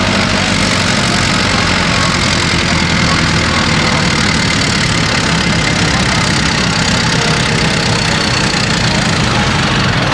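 Pulling tractor's engine idling steadily at an even pitch, over a constant background hubbub.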